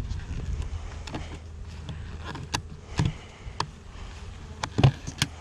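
Honeybees buzzing around the hive entrance, a steady low hum, with several sharp clicks and knocks through the second half.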